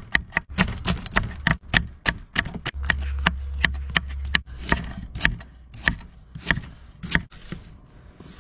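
Knife chopping boiled cured pork ribs on a cutting board: sharp strokes at about four a second, becoming sparser in the second half. A low rumble sounds for about a second and a half in the middle.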